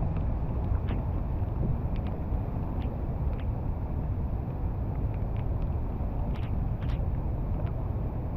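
Steady low rumble of wind buffeting the microphone, with a few scattered light ticks.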